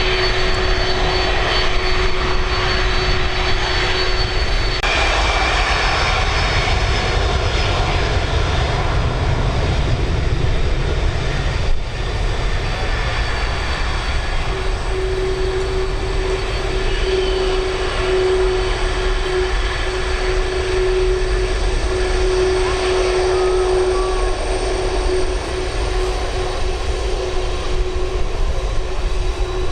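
Boeing 747-400F's four turbofan engines running loud and steady, a deep rumble under a steady whining tone.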